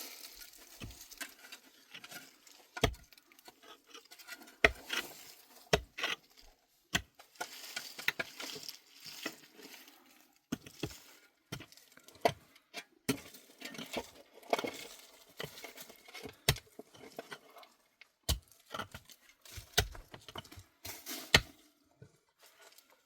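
Irregular knocks and clicks of hard objects being handled, some sharp and loud, with light rustling between them.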